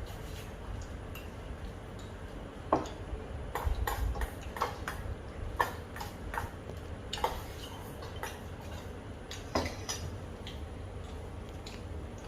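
Eating sounds: irregular clicks and clinks of a spoon against a bowl of puffed rice in thin curry, a few louder knocks among softer ticks.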